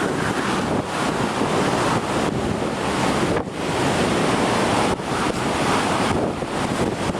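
Typhoon wind rushing continuously in strong gusts, dipping briefly twice before surging again.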